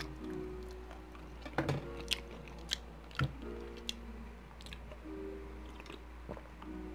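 Close-miked chewing of food, with wet mouth clicks and smacks at irregular intervals.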